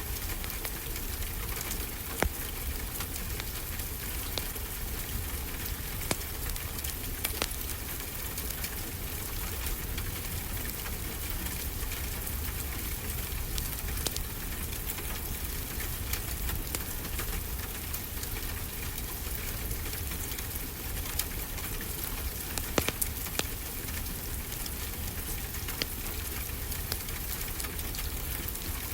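Wood fire crackling, with scattered sharp pops, a few louder than the rest, over a steady low rush of ocean waves.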